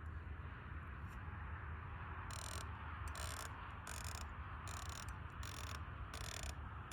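Elevation turret of an Athlon Gen 2 ETR rifle scope being dialed up, heard as short runs of rapid clicks, one about every 0.7 s, beginning about two seconds in. A steady background hiss runs underneath.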